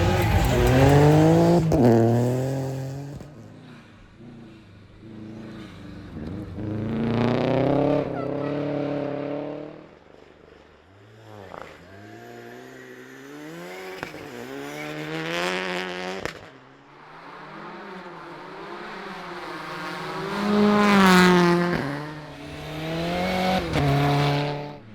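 Rally car engines revving hard and passing by in several loud surges, the pitch climbing in steps through gear changes and dropping off between passes.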